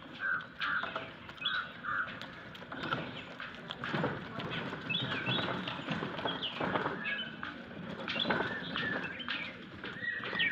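Small birds chirping and twittering in short, high calls throughout, with a few brief rustling noises, the loudest about four seconds in.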